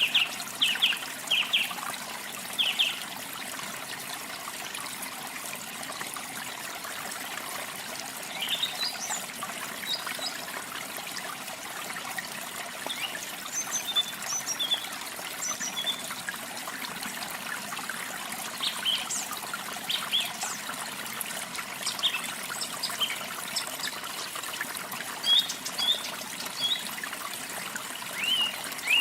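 Steady rush of running water with small birds calling over it: a quick run of short chirps in the first few seconds, then scattered high chirps and whistles through the rest.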